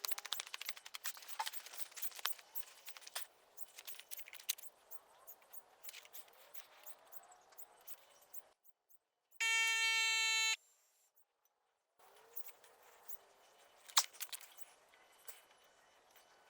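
Quick, irregular clicking and ticking, then a steady buzzing beep lasting about a second, cut off sharply between silent gaps, then more scattered clicks.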